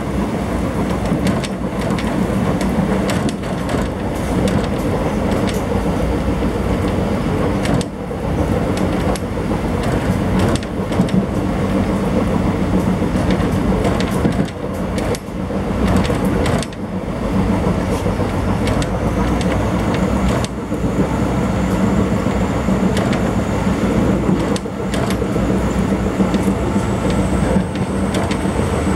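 Mandovi Express passenger train running along the track, heard from inside a coach by the window: a steady rumble of wheels on rail with scattered clicks and knocks.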